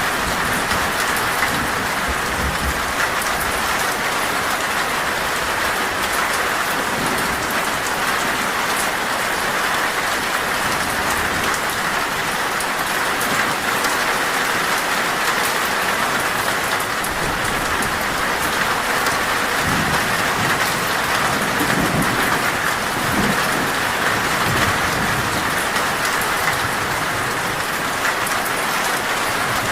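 Heavy rain pelting a metal roof in a steady downpour, with a low rumble of thunder about two-thirds of the way through.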